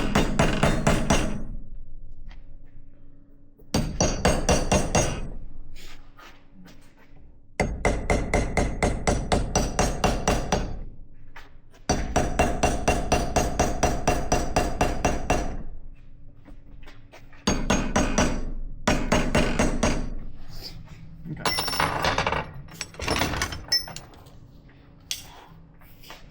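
Hammer striking steel in about six quick runs of roughly four blows a second, with short pauses between runs, over a faint steady hum. The hammering is meant to knock a stuck part of a wheel spindle and hub loose.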